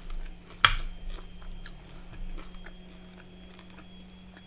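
A person eating crispy takeaway food close to the microphone: one sharp crunch about half a second in, then softer chewing and a few small clicks.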